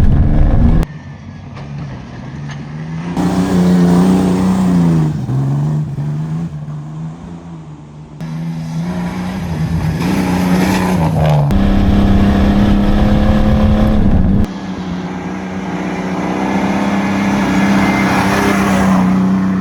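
Pickup truck engine revving up and down as it is driven hard over a dirt course, its pitch rising and falling with the throttle. The sound jumps abruptly in level and pitch several times.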